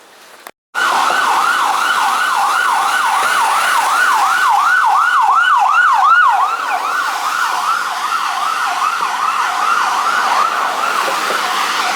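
Emergency vehicle siren wailing in a fast yelp, its pitch sweeping up and down about three times a second.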